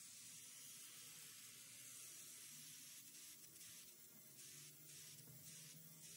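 Near silence: faint hiss.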